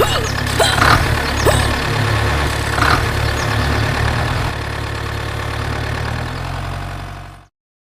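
Heavy engine idling with a steady low throb and a few short clanks and squeaks over it in the first few seconds, then cutting off suddenly near the end.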